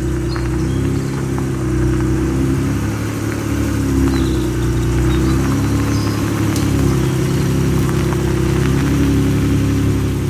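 Honda NSX's V6 engine running steadily through an aftermarket titanium exhaust, a low, even drone. Birds chirp faintly over it.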